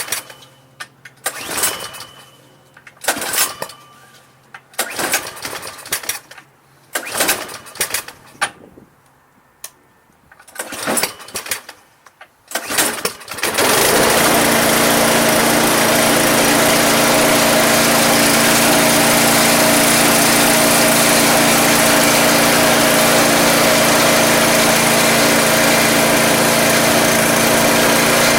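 Troy-Bilt 2410 snowblower engine being started for the first time after a no-start repair. It gives a string of short, uneven cranking bursts with gaps between them. About halfway through it catches and then runs steadily and loudly.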